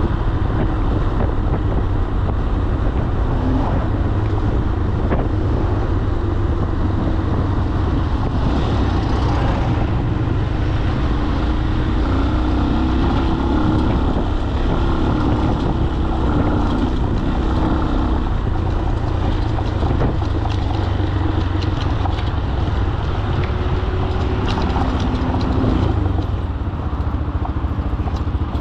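Falat 200 cc single-cylinder motorcycle engine running under way, its pitch rising and falling a little with the throttle, with a steady rumble of road and wind noise.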